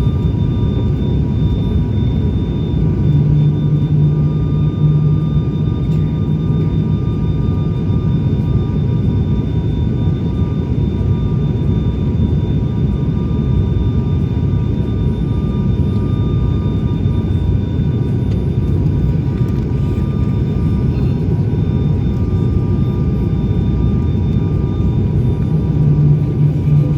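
The twin turboprop engines and propellers of an ATR 72-600 running steadily: a constant low rumble with a few steady whining tones above it. The low hum swells a little a few seconds in and again near the end.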